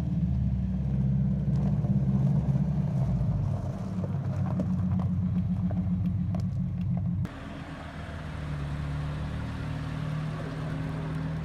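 A car engine running steadily close by. About seven seconds in it cuts abruptly to a quieter engine sound.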